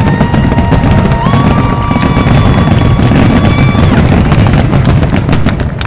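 Aerial fireworks bursting in quick succession: a dense, continuous rumble of booms with sharp crackles. Over most of it a steady high tone is held, which steps up in pitch about a second in and stops about two seconds before the end.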